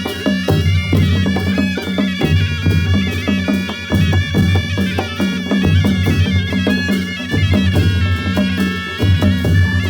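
Nepali panche baja band playing: a reedy shehnai-type shawm carries a held, wavering melody over steady drum beats and clashing cymbals.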